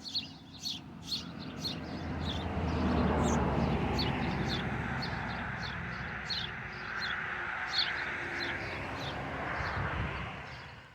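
Small birds chirping, short high chirps repeated a couple of times a second, over a low rushing noise that swells for several seconds and fades out near the end.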